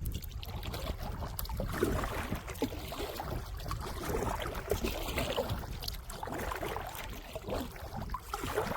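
Kayak paddle strokes: water splashing and dripping off the paddle blades, over a steady low wind rumble on the microphone.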